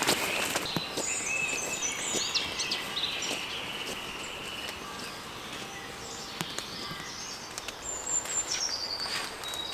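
Woodland songbird singing: a phrase of quick high notes stepping downward about a second in, another near the end, with lower whistled notes between.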